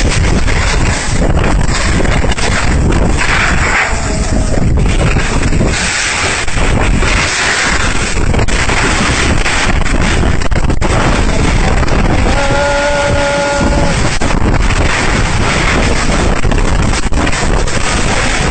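Storm wind blowing hard and buffeting the microphone, a loud, steady rushing noise with gusts. A short pitched tone sounds briefly about two-thirds of the way through.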